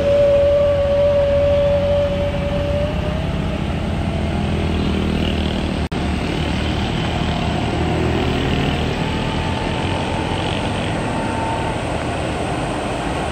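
Road vehicles climbing a steep hill in slow traffic: a continuous engine rumble with a steady whine for the first three seconds that rises slightly and fades, then fainter higher whines. The sound cuts out briefly about six seconds in.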